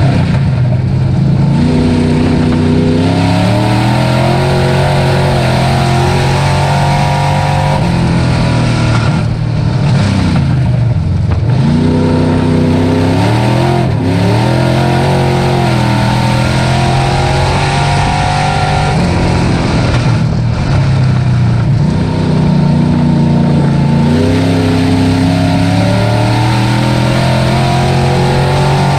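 Dirt-track race truck's engine running hard, its pitch climbing under throttle and falling sharply twice, about a third and two-thirds of the way through, as the throttle is lifted, then climbing again.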